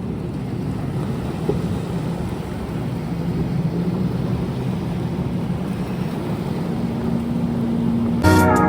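An engine running steadily, a low hum whose pitch rises a little near the end. Music comes in suddenly just before the end.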